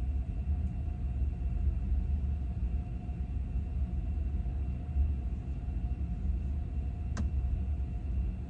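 Steady low rumble of a vehicle, like road and engine noise in a car's cabin on the move, with faint steady whines above it. There is a single sharp click about seven seconds in.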